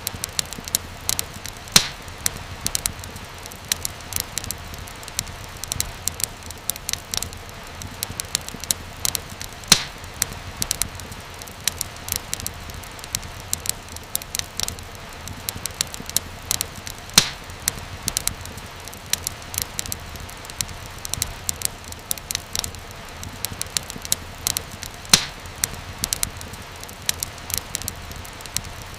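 Fireplace fire crackling: a dense run of small snaps and pops, with a few sharper, louder pops every several seconds, over a steady low rumble of the flames.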